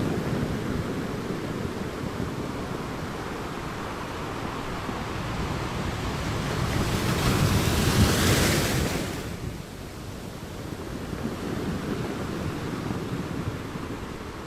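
Ocean waves breaking on a beach: a steady surf wash, with one wave building and crashing about eight seconds in, then falling back to a quieter wash.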